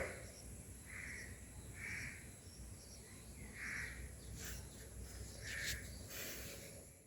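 A crow cawing five times, roughly once a second with a longer pause in the middle, over faint high bird chirps and a steady high-pitched whine.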